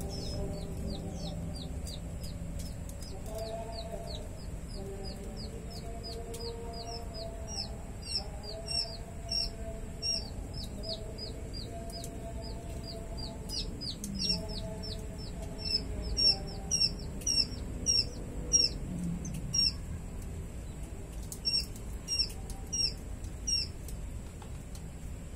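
A small bird chirping over and over in short, high, falling notes, about three a second at first and then louder, in quick pairs, in the second half. Fainter wavering lower calls and a steady low hum lie underneath.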